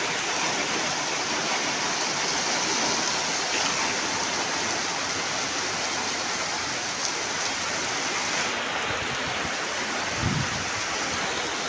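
Torrential rain pouring down steadily, a continuous even hiss of water.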